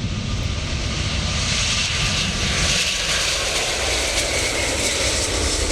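Airbus A380's jet engines running loud, a dense rumble with a hiss that grows brighter about two seconds in.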